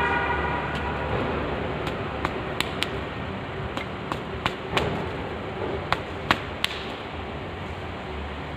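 A series of sharp clicks and knocks, about a dozen, scattered between about two and seven seconds in, over a steady background rumble.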